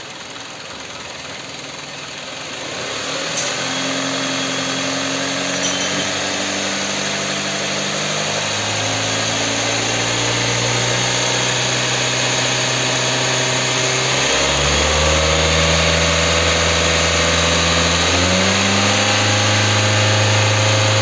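Kia K5 engine with newly fitted connecting-rod bearings, revved up slowly from idle. The engine speed climbs in steps and is held high, in a test run checking whether the rod knock is gone.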